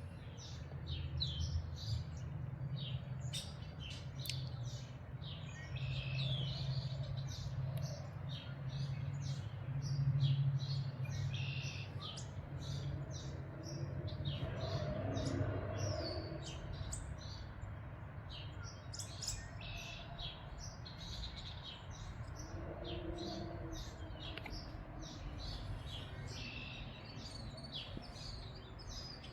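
Songbirds chirping and singing in quick, short notes throughout, several birds overlapping, over a low steady rumble.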